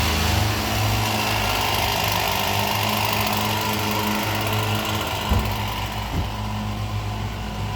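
A motor running steadily with a low hum, and one sharp knock about five seconds in.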